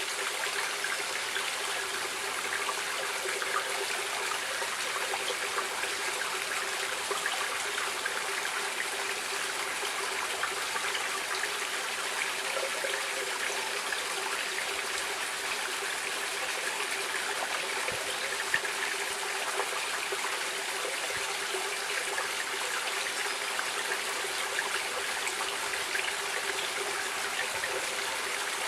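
Stream water running and trickling steadily in an even, unbroken rush, with small splashes here and there.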